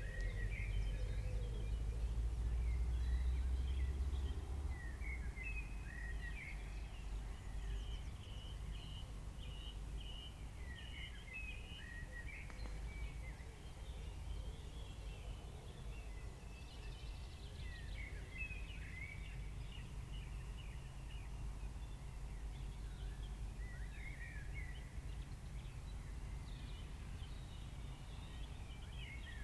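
Faint birds chirping on and off over a low, steady background rumble.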